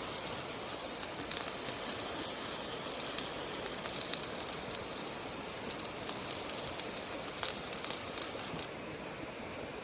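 Wood fire crackling and hissing in a campfire stove, with sharp irregular pops over a steady hiss. The sound drops suddenly to a quieter hiss near the end.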